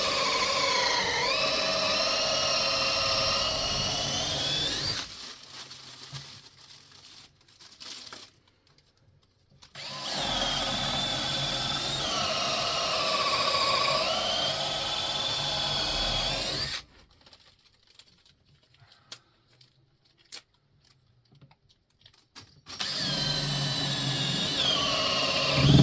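Power drill running into wood in three long bursts of several seconds each, its whine dropping in pitch as it bites under load and rising again.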